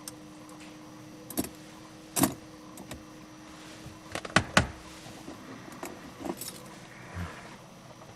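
Scattered sharp clicks and clinks, the loudest two in quick succession about halfway through, like keys jangling on the ignition key ring in a car's cabin, over a faint steady hum.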